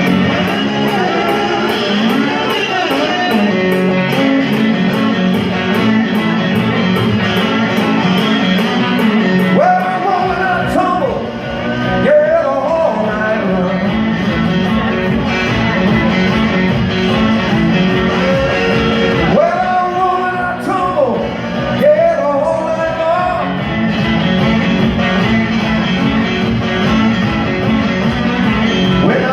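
Live blues-rock band playing the instrumental opening of a song, a guitar leading with gliding, sliding notes over a steady backing. Deep bass comes in about a third of the way through.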